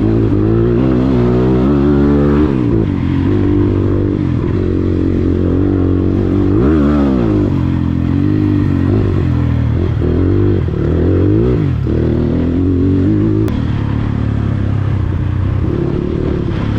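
Dirt bike engine running under way, the pitch rising and falling again and again as the throttle is opened and closed over rough ground.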